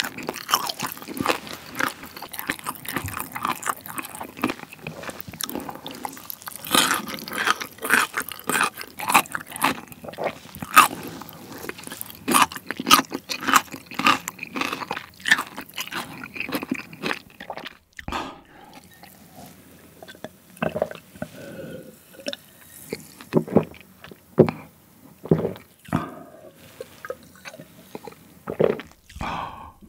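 Close-miked chewing of crispy Korean fried chicken: dense crunching and crackling of the fried crust and meat for about the first 18 seconds, then slower, sparser chewing and mouth sounds.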